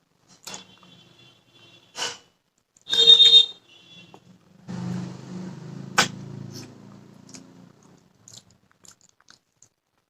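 Eating sounds of a meal of rice and bony fish: scattered clicks and mouth noises, with a few brief ringing clinks, the loudest about three seconds in. A low, steady hum-like sound runs for about three seconds in the middle.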